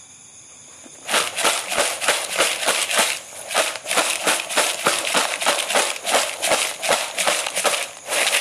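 Dry, crunchy snack pieces rattling as they are shaken rhythmically in a container, about five shakes a second, starting about a second in.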